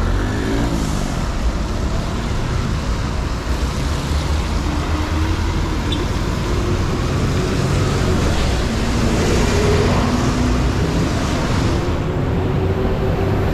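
Steady city street traffic: motor vehicles running along a busy avenue on wet road, with a low rumble and engine hum.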